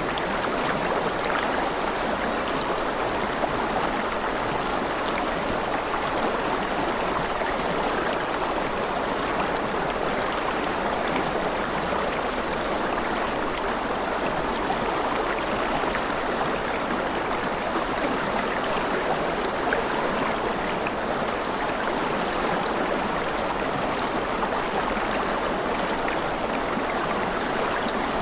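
Rushing river water, a steady even rush with no letup.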